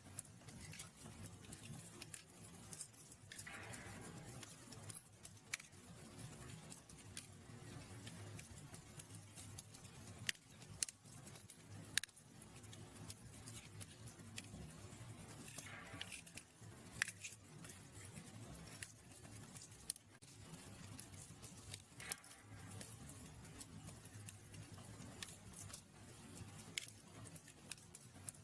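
Wood fire in a fireplace crackling, with irregular sharp pops and snaps, some louder than others, over a soft low rumble.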